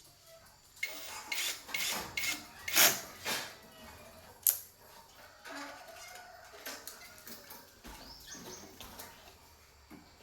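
Small metal tools and parts clinking and rattling as they are handled, with a sharp click about four and a half seconds in.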